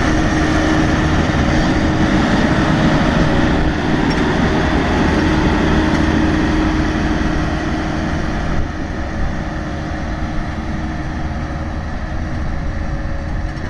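Road roller's engine running steadily with a low, continuous drone, easing slightly quieter a bit past the middle.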